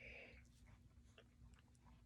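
Near silence: room tone with a brief soft hiss at the start and a few faint scattered clicks.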